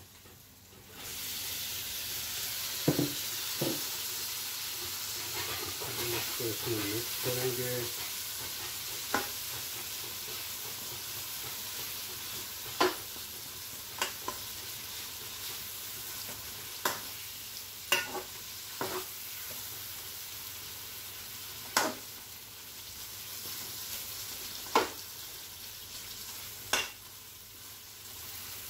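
Raw chicken pieces frying in hot ghee with tomato, ginger and garlic masala, a steady sizzle that starts about a second in. A metal spatula stirs and knocks against the metal pot in a dozen or so sharp clicks.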